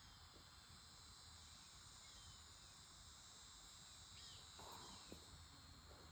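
Near silence with a faint, steady high-pitched insect chorus, and a brief falling chirp about four seconds in.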